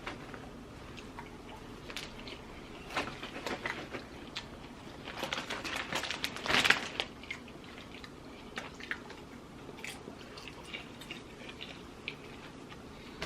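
Someone eating white cheddar popcorn: quiet crunching and chewing with scattered crackles, busiest a few seconds before the middle.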